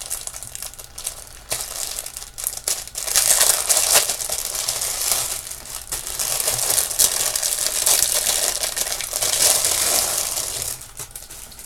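Plastic jewelry packaging bags crinkling and rustling as they are handled and opened; the crinkling grows louder about three seconds in and stops shortly before the end.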